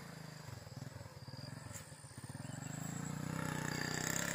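Motorcycle engine running at low revs with a fast, even pulsing, growing louder in the second half.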